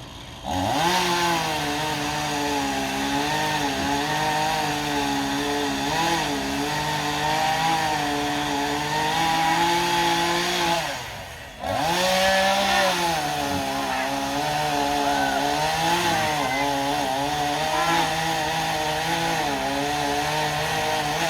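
Two-stroke chainsaw at full throttle, its engine pitch wavering as it bites into the wood, with its new chain now turned the right way round. It revs up about half a second in, eases off to near idle about halfway through, then revs back up and keeps cutting.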